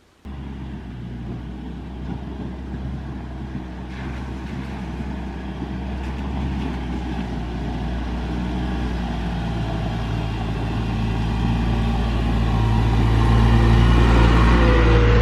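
A vehicle engine running with a steady low hum, growing gradually louder, then cutting off suddenly at the end.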